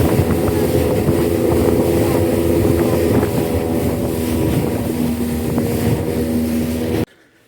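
Speed boat's 75-horsepower outboard engine running steadily under way, over the rush of water and wind on the microphone; the engine note drops slightly about three seconds in. The sound cuts off abruptly near the end.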